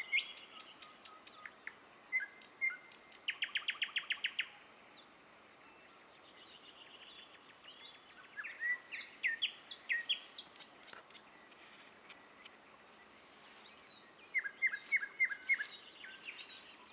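Two nightingales singing: phrases of fast repeated notes, rattles and clear whistles, with pauses of a few seconds between bursts of song.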